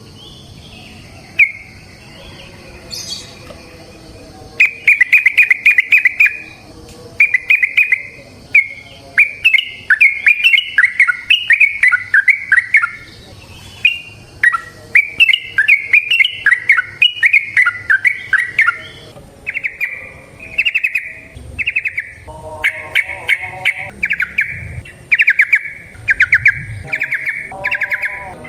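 Yellow-vented bulbul (trucukan) singing, with scattered calls at first, then long runs of quick notes in bursts of a second or two with short pauses between: its extended 'ropel' song.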